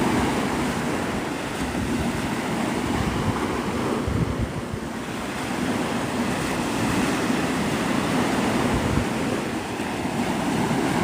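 Gulf of Mexico surf breaking and washing up the beach, a steady rush that swells and eases, with wind buffeting the microphone in low rumbles.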